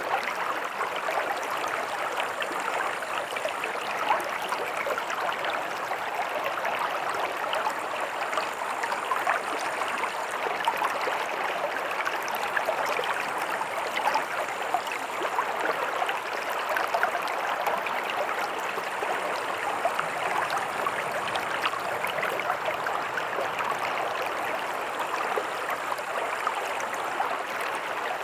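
Stream water running steadily over stones, a continuous rushing and babbling.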